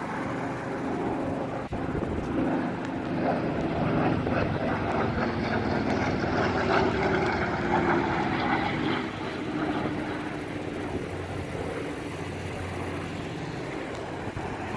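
Piston-engined propeller warplane flying past: the engine drone swells to its loudest in the middle and then drops in pitch as the aircraft passes and moves away.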